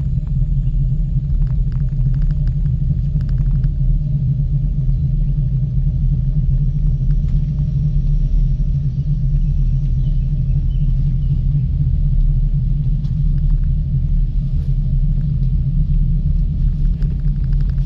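Steady low rumble and hum of a ropeway gondola travelling along its cable, with faint scattered ticks and rattles over it.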